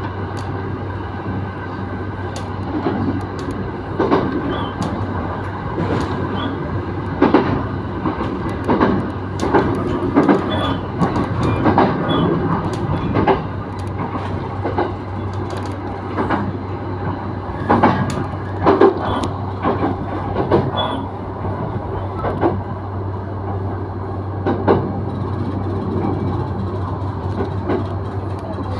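Electric commuter train running, heard from inside the passenger car: a steady low hum under irregular clacks and knocks from the wheels on the track.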